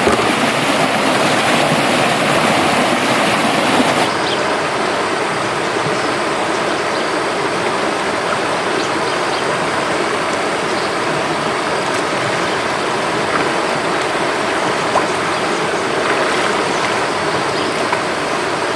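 River water rushing steadily. About four seconds in the sound changes abruptly and loses some of its hiss, and a few faint ticks follow later.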